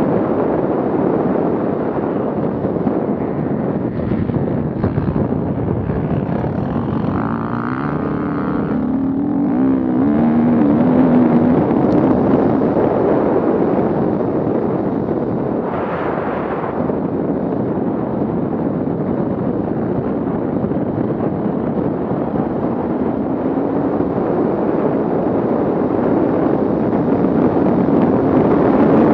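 Off-road vehicle engine running under load, its pitch wavering up and down as the revs change about a third of the way in and again near the end.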